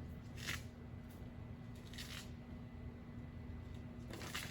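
Quiet room tone with a steady low hum, broken by two brief soft rustles about half a second and two seconds in.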